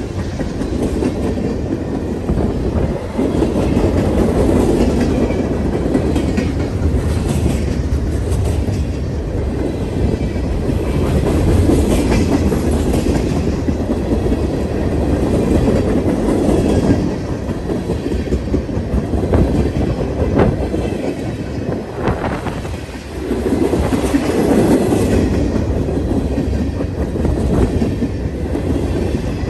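A long freight train rolling past, its steel wheels clicking over rail joints over a steady rumble.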